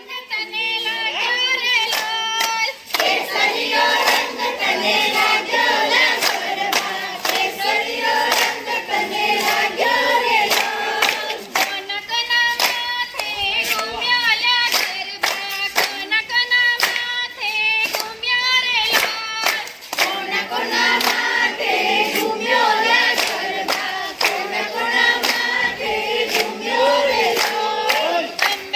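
Garba song sung by a group of voices, with steady rhythmic hand claps keeping the beat.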